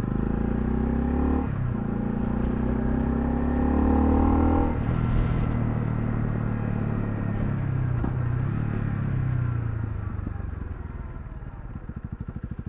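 Honda CL250's single-cylinder engine pulling through the gears, with a shift about a second and a half in and another about five seconds in. Engine speed then falls as the bike slows, and the engine settles to an even idle near the end.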